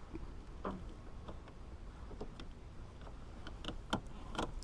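Jump-starter cables' spring clamps being handled and clipped onto car battery terminals: scattered light clicks, with a few sharper metallic clicks near the end.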